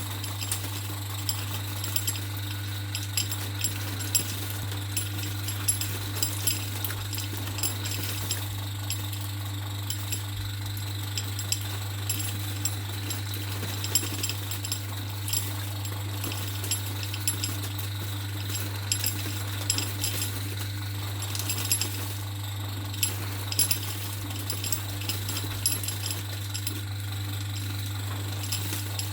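Fire crackling in a fireplace, with frequent irregular sharp clicks and pops over a steady low hum.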